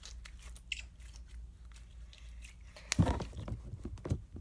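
Slime being handled and squeezed by hand, giving scattered small clicks and pops, with a louder run of crackling pops about three seconds in.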